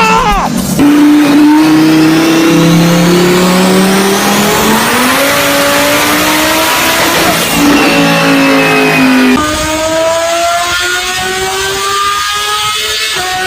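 Supercar engine at full throttle on a chassis dyno, its pitch climbing through a pull with a couple of steps and drops along the way. About nine and a half seconds in it cuts abruptly to another car's engine, a little quieter, rising steadily in pitch through its own pull.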